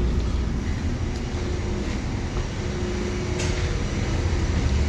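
Steady low rumble and hum of a ship's machinery heard inside the vessel, with a faint click about three and a half seconds in.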